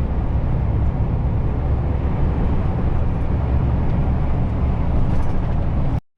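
Heavy truck driving along the road: a steady low engine and road rumble that cuts off suddenly near the end.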